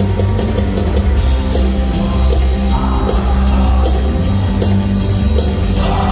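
Live praise band playing loud, upbeat worship music with heavy bass and a steady drum beat. A crowd shouts briefly about three seconds in and again near the end.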